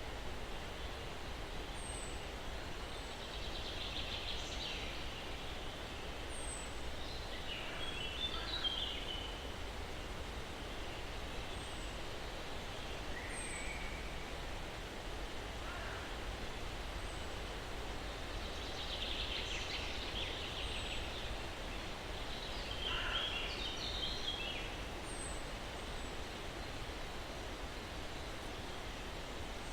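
Steady soft breeze through pines, with birds singing now and then: thin high chirps every few seconds and several rapid trills and short note runs.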